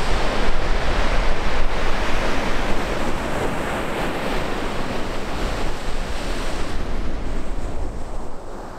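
Baltic Sea surf washing onto the shore, with wind buffeting the microphone as a low rumble. It fades near the end.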